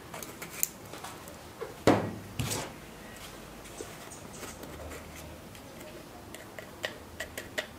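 Kitchen handling while seasoning: light clicks and taps of containers and utensils, with a louder knock about two seconds in and a quick run of small clicks near the end.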